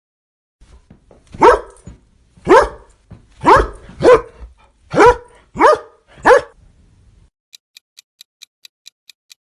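A dog barking seven times, short single barks about a second apart, a few coming in quick pairs. After that comes a faint steady ticking, about four ticks a second.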